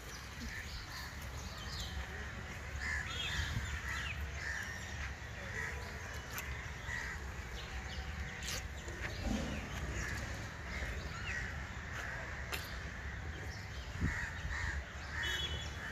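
A bird calling over and over in short calls, about one a second, over a steady low rumble.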